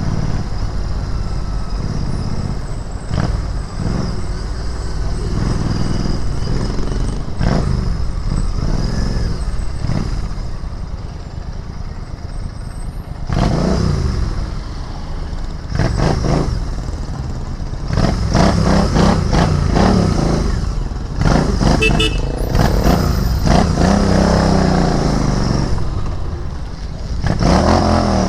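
Royal Enfield Interceptor 650's parallel-twin engine and exhaust on the move, with the engine note rising and falling again and again as the bike accelerates and changes gear. It gets louder and busier in the second half.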